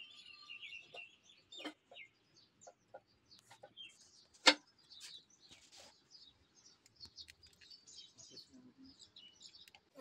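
Bird calls and chirps in the background, with scattered light knocks and one sharp knock about halfway through.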